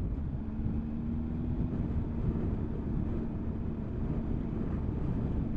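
Motorcycle engine running at a steady cruise, with a constant hum that settles in about half a second in, under wind rush and road rumble on a helmet-mounted microphone.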